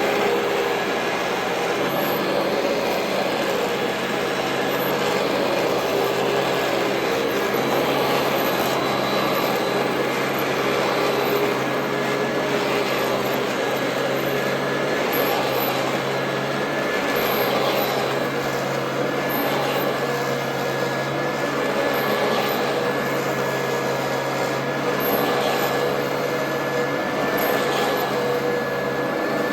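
Royal Model 2008 upright vacuum cleaner running steadily: an even rush of air with a steady motor whine.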